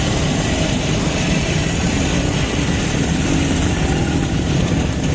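Motorcycle engine running steadily, a constant deep mechanical sound with no change in pitch.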